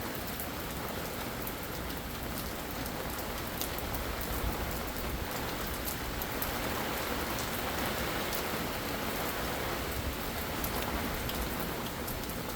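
Steady rain falling in a thunderstorm, with scattered sharp drop hits; it grows a little heavier in the middle.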